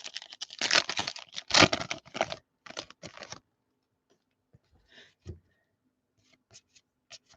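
Trading cards being flipped through by hand, a quick run of dry card-on-card slaps and rustles for about three and a half seconds, then only a few scattered soft clicks.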